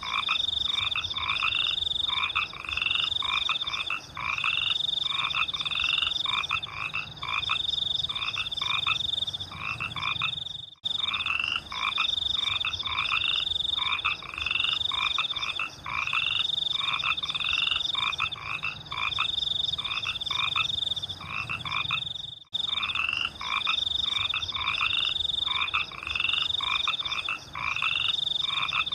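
A chorus of rice-field frogs calling rapidly and repeatedly, over a steady high-pitched trill. The sound cuts out briefly twice, about 11 and 22 seconds in.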